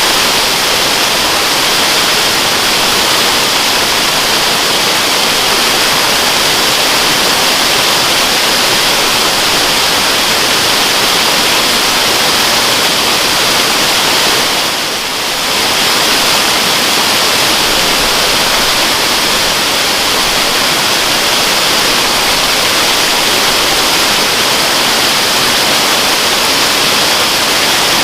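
Steady rushing water of a waterfall, an even hiss with a brief dip in level about halfway through.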